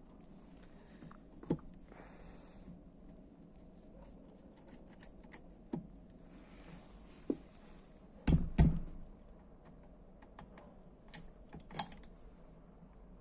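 Tools and metal engine parts handled on a workbench: scattered light clicks and taps, with a heavier double knock about eight seconds in.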